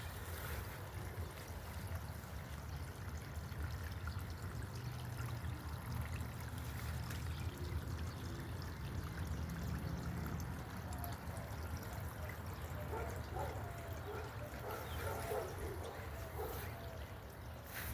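Water trickling and pouring steadily in a backyard pond, with a few faint short chirps about three-quarters of the way through.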